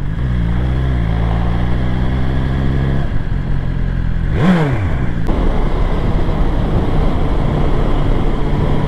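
BMW S1000XR inline-four motorcycle engine running at steady revs under wind noise, its note fading about three seconds in as the throttle eases. Two short rising-then-falling sounds come midway and near the end.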